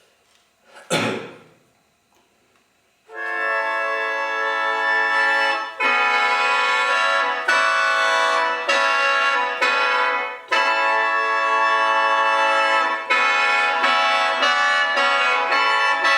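Free-reed mouth organ playing sustained chords that change every second or two, starting about three seconds in, after a short sharp noise about a second in.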